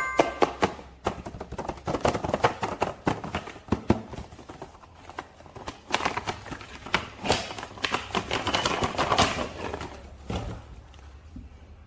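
Toy packaging being handled and opened: a rapid, irregular run of small clicks and crinkles, busiest about six to nine seconds in and thinning out near the end.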